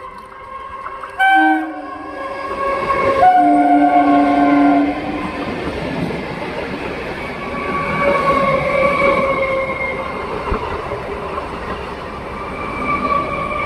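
Indian Railways nine-coach EMU local train sounding its horn, first a short blast about a second in, then a longer one of about a second and a half. It then runs past close by with a steady rumble and wheel clatter, and a faint whine under it.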